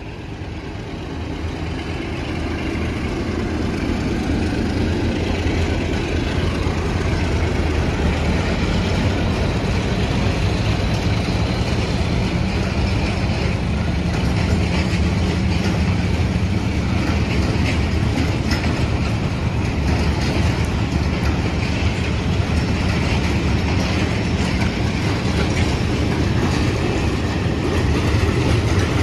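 Diesel train running on the rails, its noise building over the first few seconds and then holding at a steady loud rumble, with some wheel clatter on the track.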